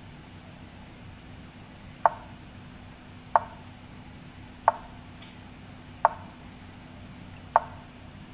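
Online chess move sound effects: five sharp wooden clicks, one every second and a half or so, as moves are played quickly in a drawn endgame.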